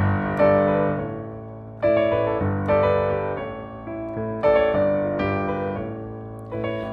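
Yamaha DGX-640 digital piano playing sustained chords, with a new chord struck every second or two and left to fade.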